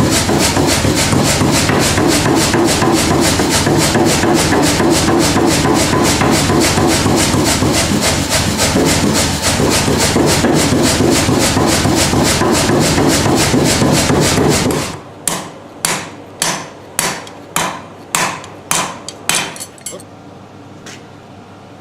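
Power hammer pounding hot stainless steel in a rapid, steady rhythm, stopping abruptly about fifteen seconds in. About ten slower single hammer blows follow, roughly two a second, each ringing briefly, before they die away.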